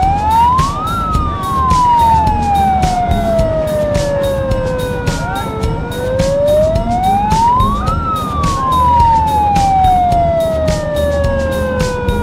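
A siren wailing: each cycle climbs quickly in pitch, then slides slowly back down, repeating about every seven seconds. Rapid sharp clattering beats sound under it throughout.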